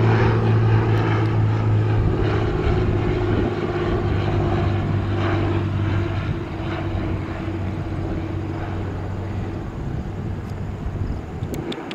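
Lancair Columbia 300's six-cylinder piston engine and propeller droning as the light plane comes in to land, a steady low hum that fades away over the second half.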